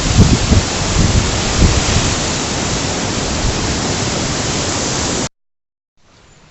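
Loud, steady rushing of the swollen, flooding river, with irregular low rumbles in the first two seconds. It cuts off abruptly a little after five seconds in, and a much fainter background follows.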